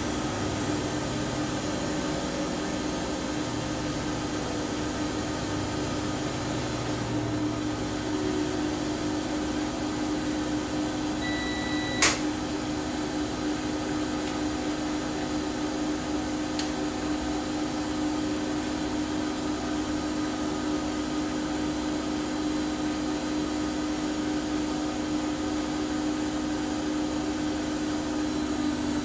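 Washing machine running with a steady motor hum and a high whine, and one sharp click about twelve seconds in.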